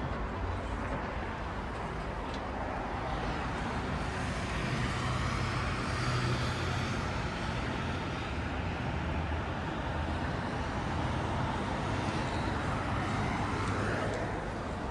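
Steady city road traffic noise. A vehicle's engine swells louder about five seconds in, and another sound rises near the end.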